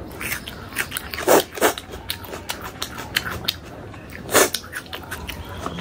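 Close-miked chewing and wet mouth smacks of someone eating, a string of short crunches and clicks, with the loudest bites about one and a half seconds in and again after four seconds.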